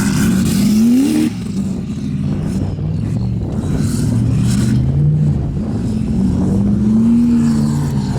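Formula Offroad race truck's engine revving hard: its pitch climbs and cuts off suddenly about a second in, then surges up again twice.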